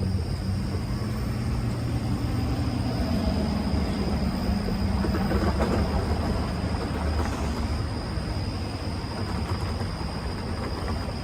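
A train rolling past: a steady, loud rumble of rail cars on the track, with a low pitched engine hum in the first few seconds and a steady high whine throughout.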